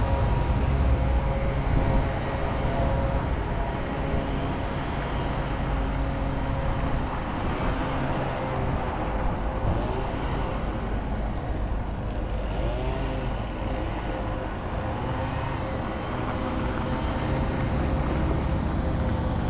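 City street traffic: a steady wash of road noise with a low engine rumble and a constant hum from idling or passing vehicles, the rumble easing slightly about two seconds in.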